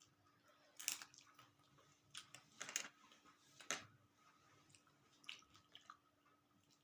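Quiet chewing and wet mouth smacks of someone eating dal, rice, omelette and roti, with a few sharper smacks about one, three and four seconds in.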